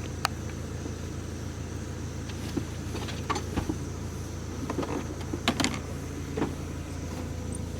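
A car engine running steadily, with scattered light clicks and knocks over it.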